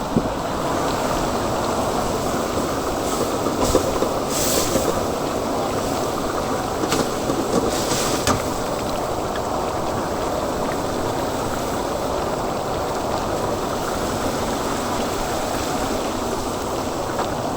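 Steady cooking noise from large woks of stir-fried chicken on the stall's burners, with a few sharp metal clinks a few seconds in and again near the middle.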